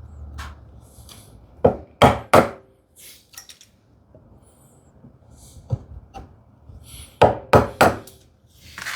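Mallet striking a chisel into wood while chopping out a tenon: three sharp knocks about two seconds in, then a quicker run of four or five near the end, with light scraping between them.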